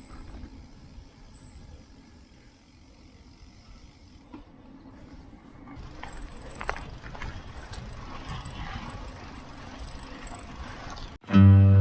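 Low, unsteady outdoor rumble of road noise, with a few sharp clicks in the second half. Acoustic guitar music cuts in suddenly near the end.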